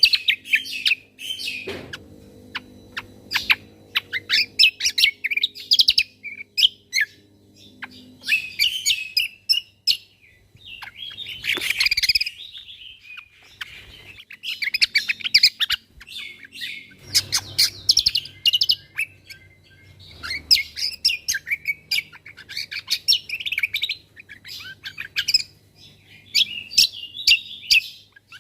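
Cucak kombo (kecial kombo) singing loud, rapid bursts of high chirps and trills, the fast 'tembakan' phrases, with short pauses between phrases.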